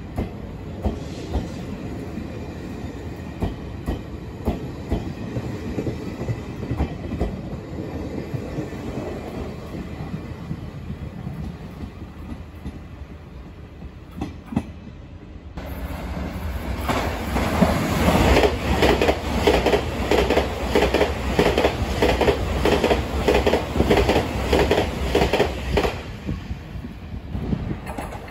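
Taiwan Railway Chu-Kuang Express coaches rolling away from the platform, wheels clicking over rail joints. About halfway through, an EMU3000 electric multiple unit runs through the station at speed, its wheels clattering over the rail joints in a rapid, even clickety-clack that is the loudest part, then dying away.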